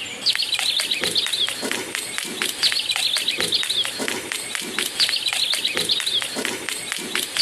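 Looped background soundtrack of bird chirps: a run of quick falling chirps about every two and a half seconds over a steady ticking beat.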